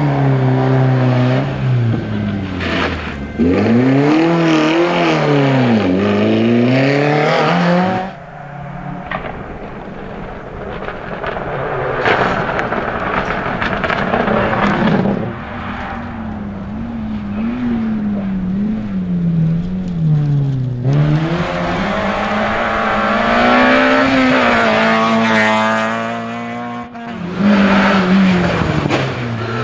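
Rally cars at full throttle on a stage, their engines revving up through the gears and dropping back on lifts and shifts, several cars in turn with abrupt changes between them. A little tyre noise can be heard along with the engines.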